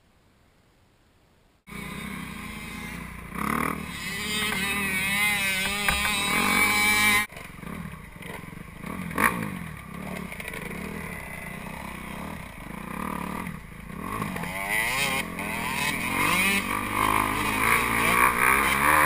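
Dirt bike engine running and revving, its pitch rising and falling. It starts suddenly after a short near-silence, drops abruptly about seven seconds in, then builds again toward the end.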